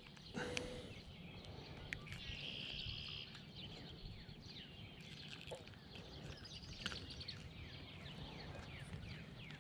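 Faint open-air ambience with small birds chirping on and off, and a short buzzy trill about two and a half seconds in. A few faint clicks are heard as well.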